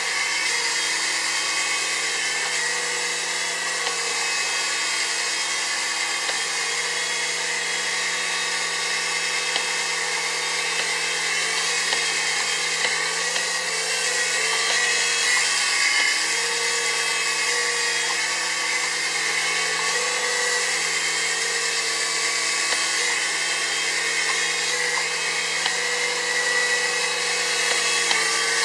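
Small RC toy helicopter's electric motors and rotor blades whining steadily, the pitch wavering slightly now and then.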